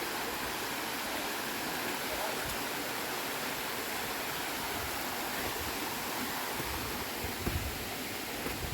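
Steady rushing of water from a waterfall and its stream, running low in the dry season, with a few soft low thumps near the end.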